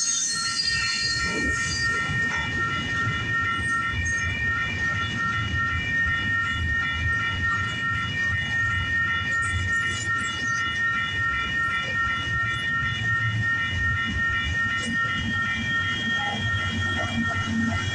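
Long intermodal freight train rolling past: a steady low rumble of cars and wheels on the rails, with a continuous high-pitched ringing tone above it, typical of wheel squeal.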